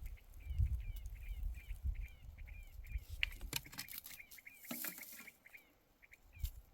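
A bird calling over and over, short hooked chirps about three a second, stopping a little after five seconds in. A low rumble and a few sharp clicks sound with it.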